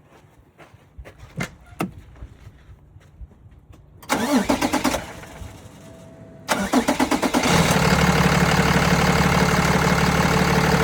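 Diesel engine of a 2012 Peterbilt 337 medium-duty truck being started: the starter cranks for about a second and stops without it catching, then cranks again about two seconds later and it fires and settles into a steady idle. A short steady tone sounds between the two attempts.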